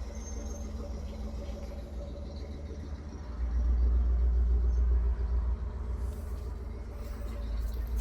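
Camper air conditioner running: a steady hum over a low rumble that gets louder about three and a half seconds in.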